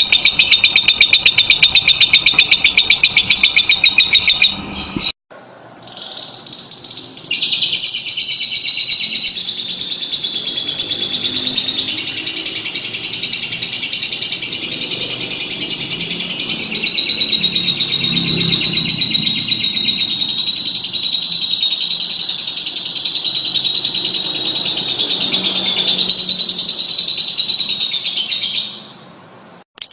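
Fischer's lovebird singing: a loud, high-pitched, rapid chattering twitter. It breaks off abruptly about five seconds in, leaving a short quiet gap, then resumes as a long unbroken run of dense chatter that stops just before the end.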